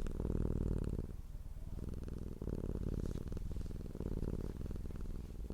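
Domestic cat purring: a deep, rapid pulsing rumble that swells and eases in phases of about a second, with the cat's breathing.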